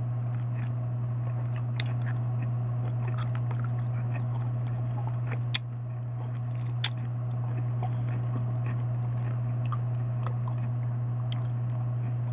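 A person chewing a crunchy cornichon pickle with a full mouth: scattered small crunches and clicks, three sharper ones, about two seconds in and twice near the middle. A steady low hum is the loudest thing.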